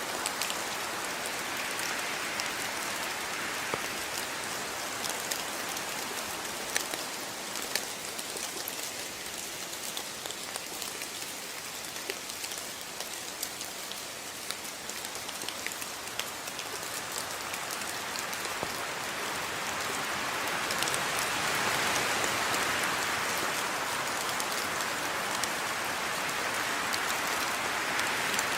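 Steady rain falling, with many sharp individual drops pattering on a surface; the rain swells a little heavier in the second half.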